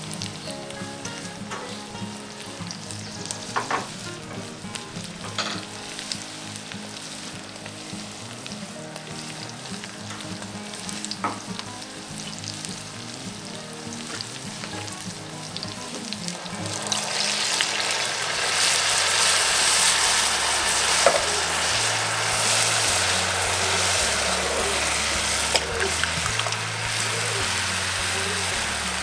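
Onions, garlic and habaneros frying in oil in a cast-iron pot, a soft sizzle with a few light taps. About two-thirds of the way through, canned peaches and their syrup go in, and the pot sizzles and bubbles much more loudly.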